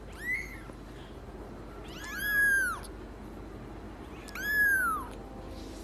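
Cat meowing: a short meow right at the start, then two longer meows about two seconds apart, each rising and then falling in pitch.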